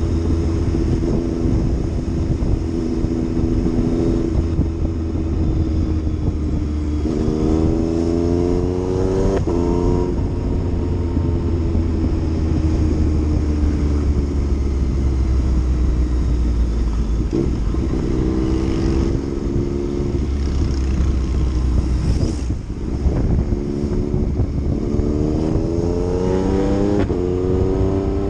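Yamaha MT-09's three-cylinder engine under riding. It revs up through the gears with quick drops in pitch at each shift, then winds down slowly on closing the throttle, and climbs through the gears again near the end.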